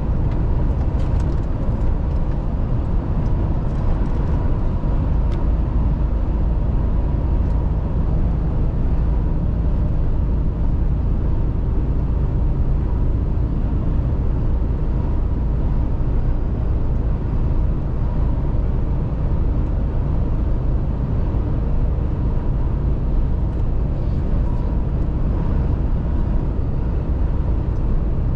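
Mercedes-Benz Actros truck on the move: a steady low rumble of diesel engine and road noise that holds even throughout.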